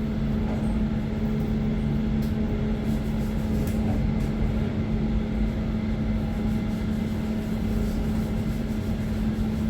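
Passenger train running, heard from inside the carriage: a steady low rumble with a constant hum.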